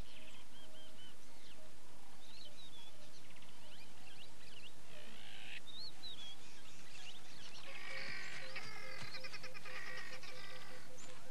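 Wild birds chirping and whistling over a steady hiss, with short rising and falling calls. In the last few seconds the calls thicken into a busier, faster chatter.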